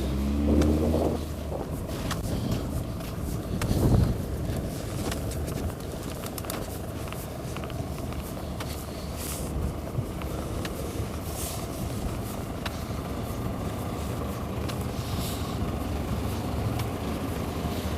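Steady city street traffic noise from passing cars, with a louder swell about four seconds in.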